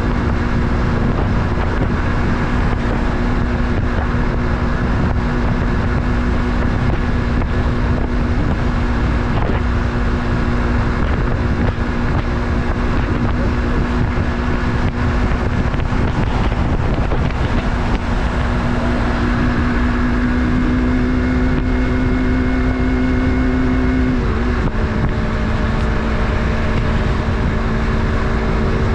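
Yamaha MT-03's 321 cc parallel-twin engine running at steady cruising revs under load, with wind rushing over the microphone. About three-quarters of the way through, the engine note creeps up and then drops suddenly, as at an upshift.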